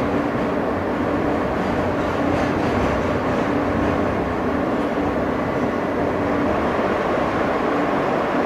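Inside an R160 subway car running between stations: the steady rumble of steel wheels on the rails, with a held motor tone that comes and goes.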